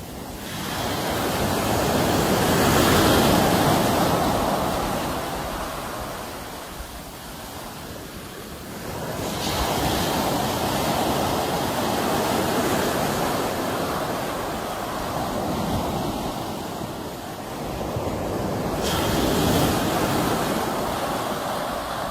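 Sea waves breaking and washing in, in three long swells: one building from about a second in, another from about nine seconds, and a third that breaks more sharply near the end.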